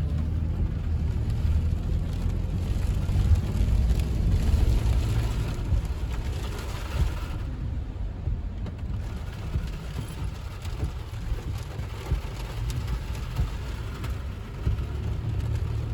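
Car cabin noise while driving on a rain-soaked road: a steady low rumble of the road and engine with the hiss of tyres and rain on the wet pavement.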